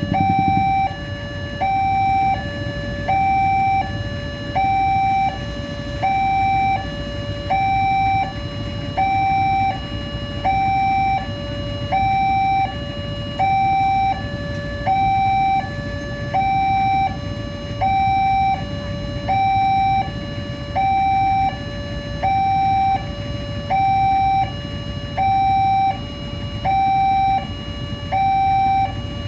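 Electronic level-crossing warning alarm sounding continuously, a two-tone signal alternating high and low about once a second, with a steady low rumble underneath.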